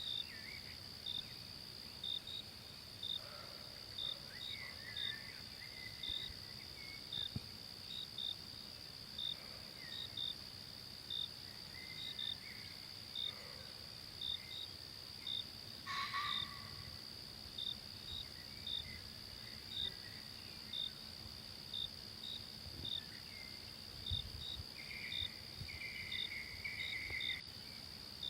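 Forest ambience of insects: a steady high-pitched drone with short chirps repeating one to two times a second, and scattered bird calls, one louder about halfway through.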